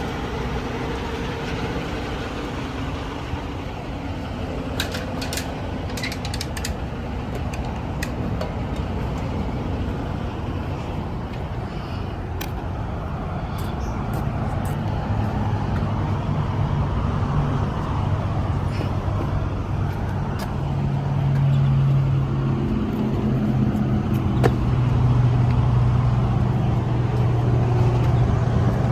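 Semi truck's diesel engine idling, a steady low rumble that grows louder about halfway through, with a few sharp clicks in the first third.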